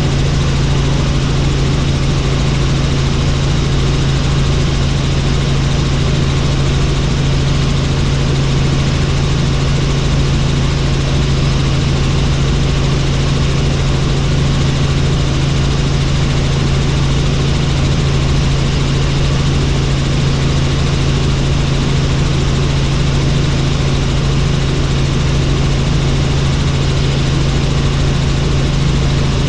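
Helicopter turbine and rotor running steadily, a loud even drone with a strong low hum.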